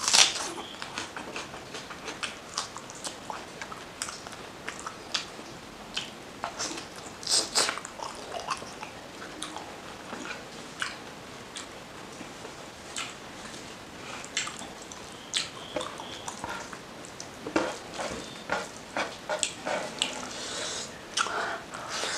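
Close-miked wet chewing of fatty mutton curry and rice eaten by hand, with many short, irregular mouth clicks and smacks, coming thicker near the middle and toward the end.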